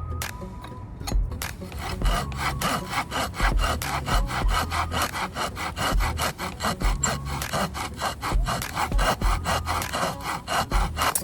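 Hand saw cutting firewood, with quick even back-and-forth strokes, several a second, starting about two seconds in.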